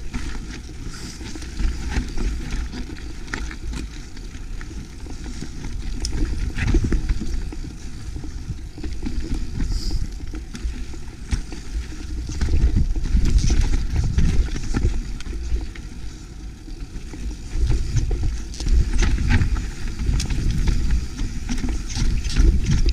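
Mountain bike descending rough rock: wind buffeting the microphone and tyres rumbling over the trail, with frequent clicks and rattles from the bike.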